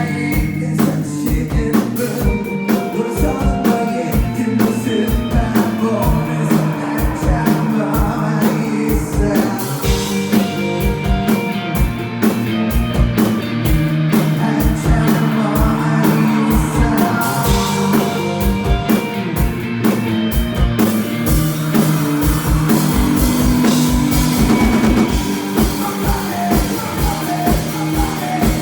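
A live rock band playing a song, with a driving drum kit beat, guitars and a singer.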